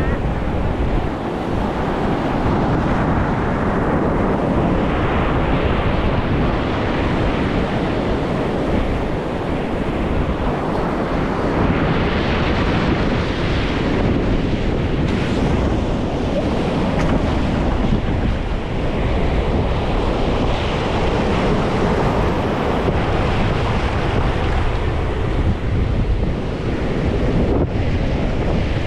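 Mediterranean surf washing onto a beach, the sound swelling and easing every several seconds, with wind buffeting the microphone.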